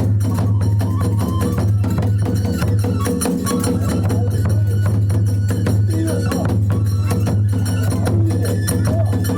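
Kagura accompaniment music: a drum beaten in a fast, unbroken rhythm with small hand cymbals clashing along with it.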